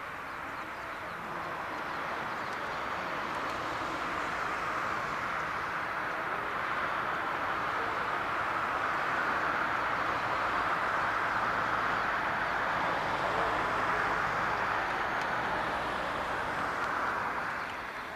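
Boeing 787-9 jet airliner's engines, a steady rushing roar that builds over several seconds, holds, then falls away near the end as the aircraft passes.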